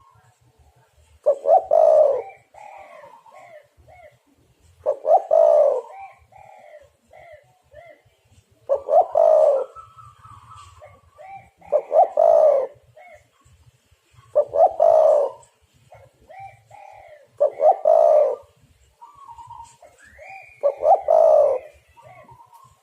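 Spotted dove cooing: a loud phrase comes about every three seconds, seven in all, with softer coos and short higher notes between them.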